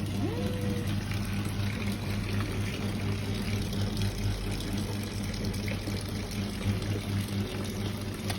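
Mini washing machine running: its motor gives a steady low hum over the churning of water in the tub, and the hum cuts off at the very end.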